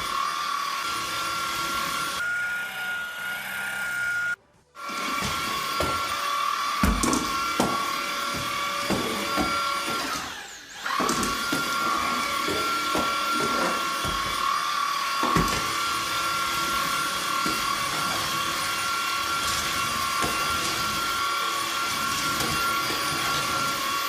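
Tineco A10 Hero cordless stick vacuum running with a steady high motor whine and scattered clicks and a few low thumps. The sound cuts out briefly about four seconds in, and about ten seconds in the whine dips and comes back up.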